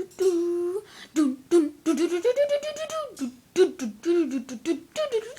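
A voice humming a bouncy tune in short gliding phrases, with sharp clicks and beatbox-like sounds between them, as a beat for a parrot to dance to.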